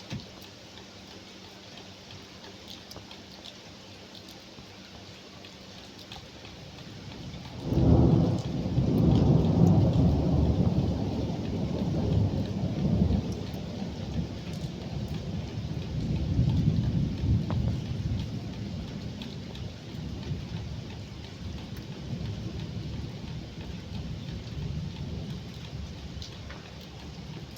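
Rain pattering with scattered drips. About eight seconds in, a thunderclap breaks into a long low rumble that rolls on, swells again and slowly dies away under the rain.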